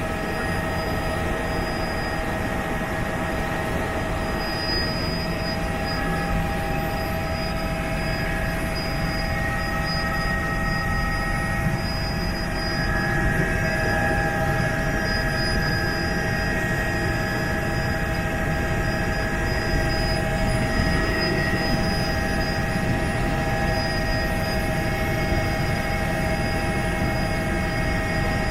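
Helicopter in flight: a steady rumble of rotor and engine noise with a steady high whine over it, slightly louder about halfway through.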